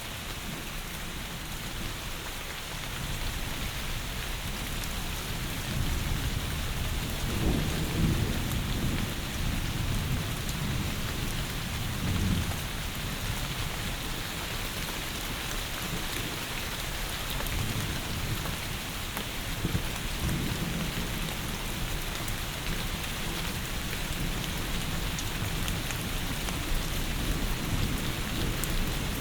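Heavy rain falling steadily, with low rolling thunder that swells up about a quarter of the way in and rumbles again a little past halfway.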